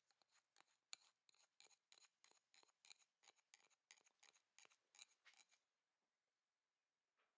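A run of faint, light, crisp clicks, about four a second, that stop about five and a half seconds in.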